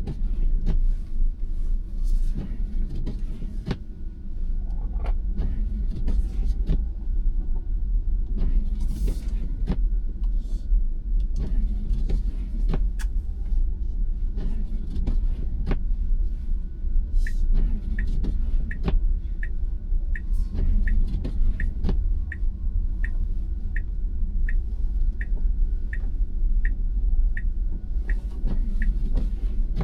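Cabin rumble of a Tesla Model Y moving slowly on a snowy road, with scattered clicks and knocks. About halfway through a regular ticking starts, about one and a half ticks a second, the turn signal, and stops shortly before the end.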